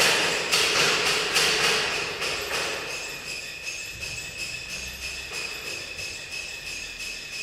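Steady metallic jingling and ringing with a rapid shaking rattle, louder at the start and fading over about three seconds to a steadier jingle.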